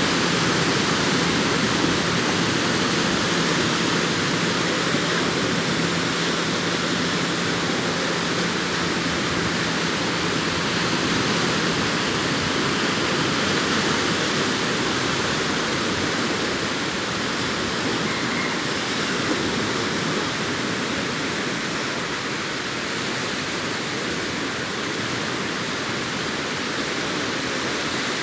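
Sea surf washing onto a beach: a steady rushing noise of waves, a little softer in the second half. A faint low hum runs underneath until about twelve seconds in.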